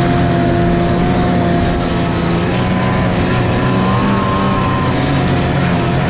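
Snowmobile engine running at a steady speed, its pitch wavering slightly up and down, over a dense rushing noise.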